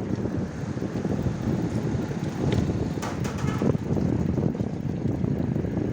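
Wind buffeting the microphone of a moving rider: a constant low rumbling rush with road noise, and a few short clicks or rattles a little past the middle.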